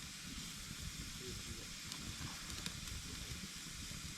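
Wood fire burning with a steady hiss and a few faint crackles about two to three seconds in, over a low rumble.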